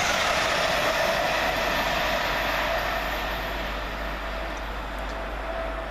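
LNER Class 801 Azuma electric train passing at speed: a steady rush of wheel and air noise with a steady whine, slowly fading as it moves away.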